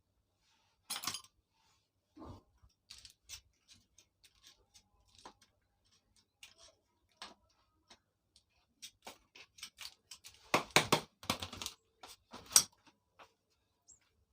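Small metal parts and tools being handled, clinking and clicking at irregular intervals, with a quick run of louder clanks about ten to twelve seconds in.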